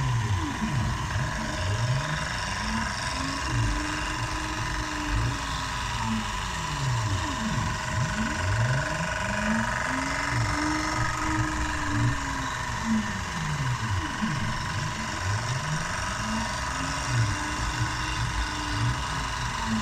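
CNC milling machine running: a steady spindle whine, while the axis stepper motors rise and fall in pitch about every four seconds as the table speeds up, traverses and slows down in repeated passes.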